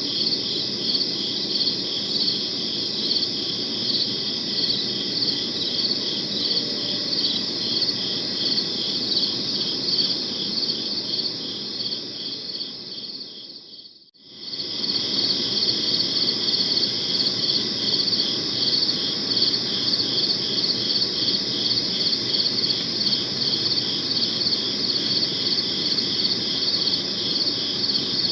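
Crickets chirping steadily in rapid, high-pitched pulses over a faint low background noise. About halfway through, the chirping fades away to near silence for a moment, then quickly returns to full level.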